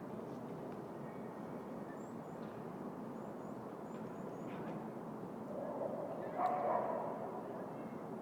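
City park ambience: a steady hum of distant city noise, with faint high bird chirps in the first half. About six seconds in, a louder pitched call rises and holds for a second or two before fading.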